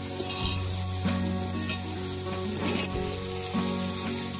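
Green chillies and onion frying in hot oil in an aluminium pot, a steady sizzle, with a few scrapes of a metal slotted spoon as it stirs. Background music plays under it.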